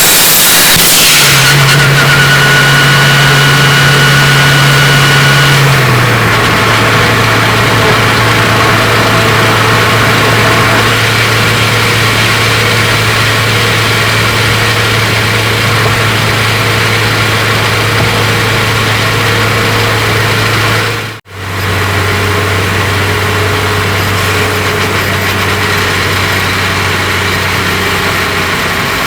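Turbocharged Honda K20 four-cylinder engine running at a steady engine speed, heard close up from inside the engine bay, with a faint high whine over it. About six seconds in, the engine note steps down to a lower steady pitch and the whine stops. About 21 seconds in, the sound drops out for a moment.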